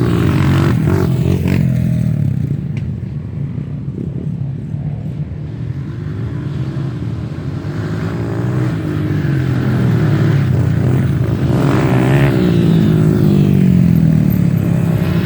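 Off-road dirt bike engine revving, its pitch rising and falling as the throttle is worked; it eases off partway through and picks up again toward the end.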